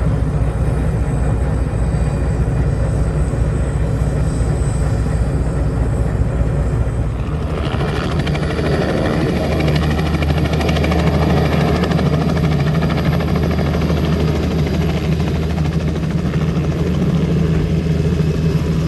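A heavy engine running steadily with a low, throbbing drone; about eight seconds in, a louder hiss joins it.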